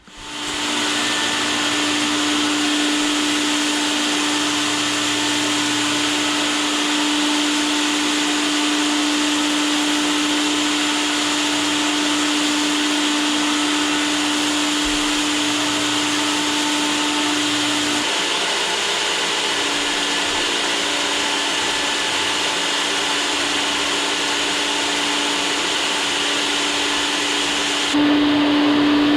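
Rotary floor buffer running steadily with a sanding screen, scuffing the sealed hardwood floor between finish coats: a constant motor hum under a loud hiss. The sound changes abruptly about 18 seconds in and again near the end.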